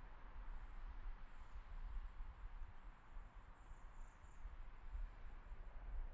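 Faint high-pitched insects chirring on and off over a steady soft rushing haze and a low rumble.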